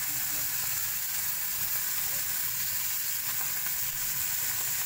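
Chicken liver sizzling in hot oil in a pan over a wood fire: a steady frying hiss with a few faint pops.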